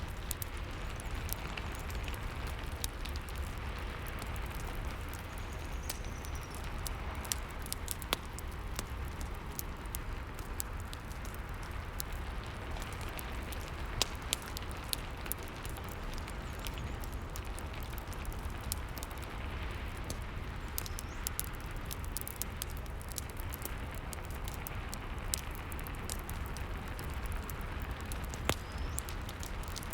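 Steady rain mixed with a crackling fireplace: irregular sharp pops and snaps from the fire over the even hiss of the rain, with a few louder pops now and then.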